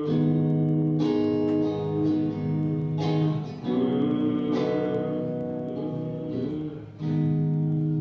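Acoustic guitar strumming chords, an instrumental passage with a new chord struck roughly every one to two seconds and each left to ring.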